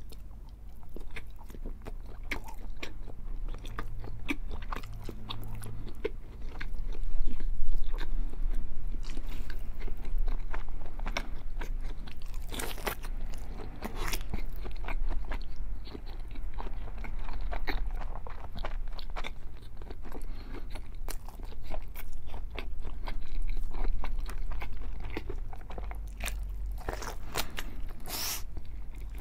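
Eating sounds: a person biting and chewing, first a slice of cheese, then a large slab of seasoned bacon, with many small wet clicks and a few louder bites about a quarter of the way in, around the middle and near the end.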